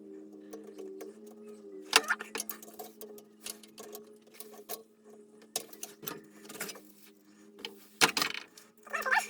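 Irregular clicks, clinks and knocks of hand work with tools and fittings, the loudest about two seconds in and again near eight seconds, over a steady low hum.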